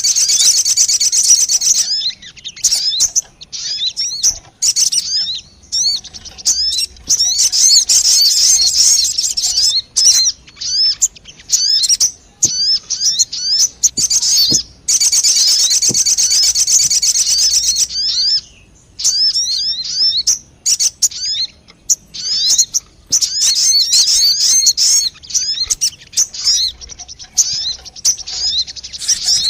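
Sogon bird song as used for a trapping lure: long, very rapid high trills alternating with strings of quick, sharp separate chirps, the pattern repeating several times.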